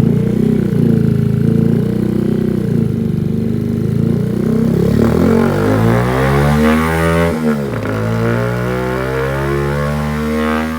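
Honda Monkey 125's single-cylinder engine on a rolling road dyno, running on a newly fitted carburettor. It holds steady for the first few seconds, then revs up with rising pitch, drops at a gear change about seven seconds in, and climbs again toward another change near the end. It is an early power run that the tuner found to be running a little lean.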